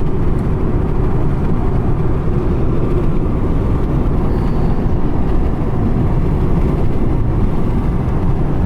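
Loud, steady low rumble of a moving vehicle, road and wind noise with no letup.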